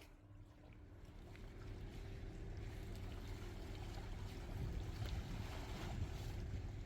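An engine running with a steady low hum and rushing noise, growing louder through the first half and then holding.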